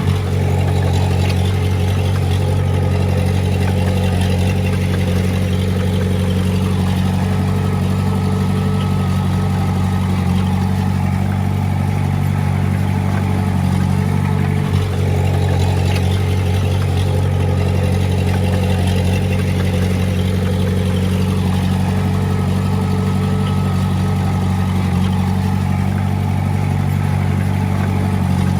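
Komatsu D20A bulldozer's diesel engine running at a steady speed, its note flat and unchanging throughout.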